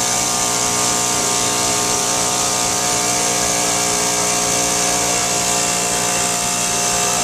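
Small student-built model engine running flat out at a steady speed, giving a steady whine over a strong hiss.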